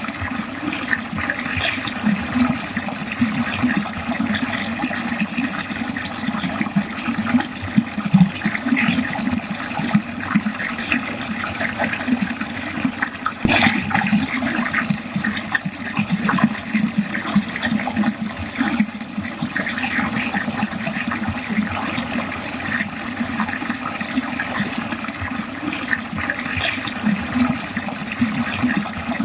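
Water draining steadily into a drain, gurgling and splashing continuously, with one sharper splash about halfway through.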